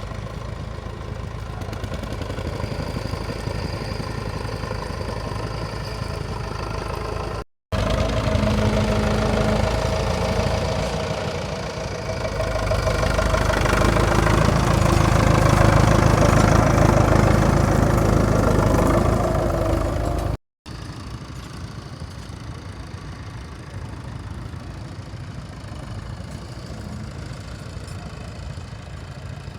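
Tractor engines running steadily, broken by two abrupt cuts. In the middle stretch the engine is louder and builds to a peak before the second cut.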